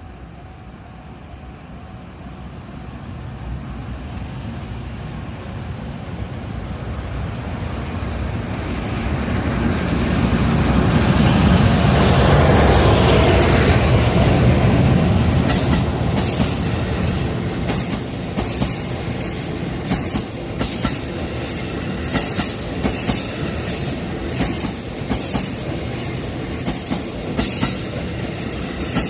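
A train of newly built Rinkai Line cars approaching and passing on a curve: its rumble grows over about ten seconds, then the wheels squeal high and steady against the rails as the cars roll by, with repeated clacks over the rail joints.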